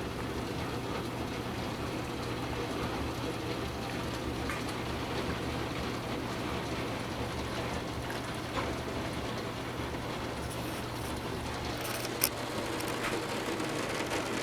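Torrential rain falling steadily, drumming on a skylight, with one sharp click about twelve seconds in.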